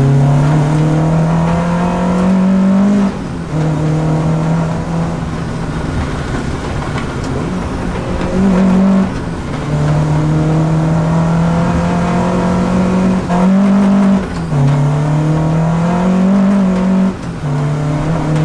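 Peugeot 205 GTI's four-cylinder engine under acceleration. Its note climbs steadily through each gear and drops at each of several gear changes.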